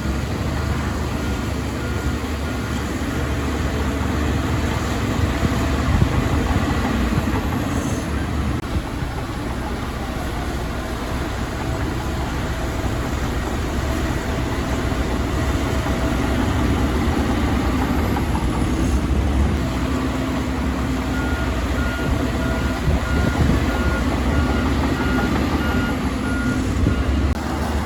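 Heavy diesel earthmoving machinery running steadily under load. A reversing alarm beeps evenly for a moment at the start and again through the last few seconds, about two beeps a second.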